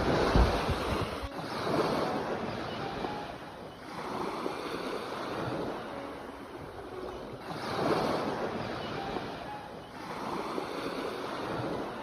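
Sea waves breaking and washing up the shore in about five swelling surges, the loudest at the very start.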